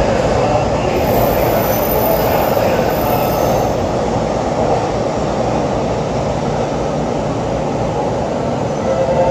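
Electric commuter train moving along the platform: a steady rumble of wheels on rails that eases a little in the second half, with a faint high squeal in the first few seconds.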